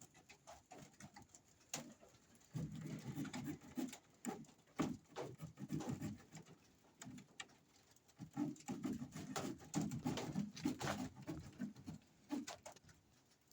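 A bird giving low cooing calls in several spells, with scattered clicks and knocks between them.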